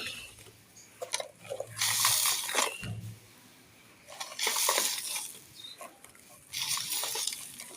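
Dry, dusty black sand clay being crushed and crumbled, in three crunching bursts with small crackling clicks between them.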